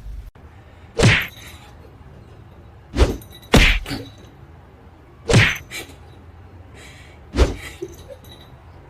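Five sharp whacks spread over about six seconds, two of them close together, over a faint steady background.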